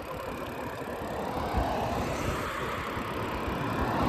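Wind buffeting the microphone and road noise while riding a bicycle, a steady rushing hiss with low flutter that grows louder toward the end.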